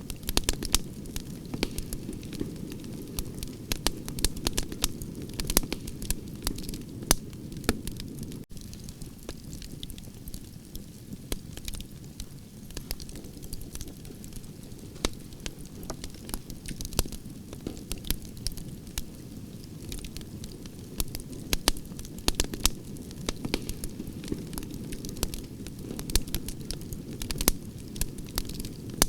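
Campfire of burning branches crackling, with frequent sharp pops and snaps over a steady low rush of flame.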